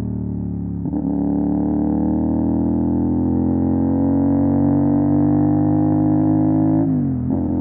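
CFMOTO 450 SR's parallel-twin engine through an MSH G6 full-system exhaust, pulling steadily under load with the revs slowly rising. The revs dip briefly about a second in, and near the end they fall off and break, as at a gear change.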